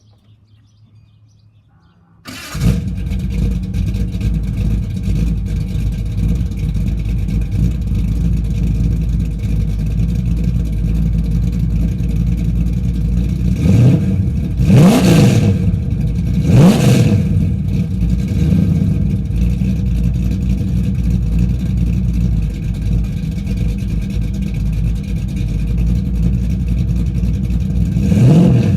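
Small-block 383 stroker V8 with fuel injection, running through a 3-inch exhaust with an X-pipe and Spintech 9000 Super Pro Street mufflers, starts about two seconds in and settles into a steady idle. It is revved twice in quick succession in the middle and once more near the end, each rev rising and falling back to idle.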